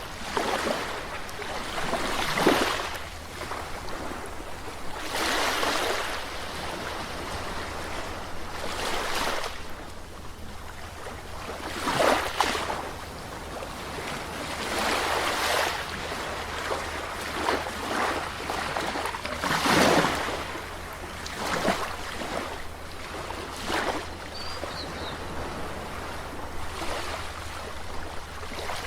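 Sea waves breaking and washing onto the shore, swelling and fading every two to three seconds over a steady low rumble of surf.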